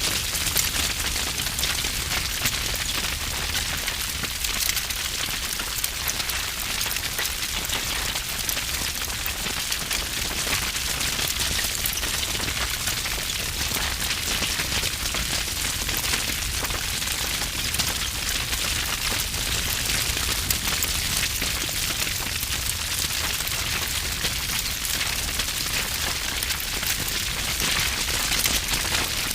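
Wood fire burning with heavy, dense crackling: a constant run of sharp pops and snaps over a low rumble of flame.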